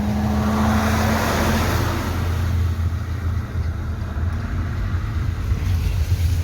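A car engine runs with a low, steady rumble as the car drives through floodwater. A rushing swell of noise rises in the first second and fades by about two seconds in.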